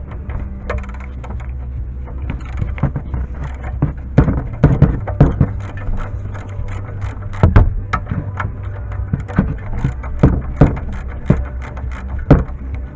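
Scattered clicks and knocks of a ratchet and socket working an engine oil drain plug loose, over a steady low hum.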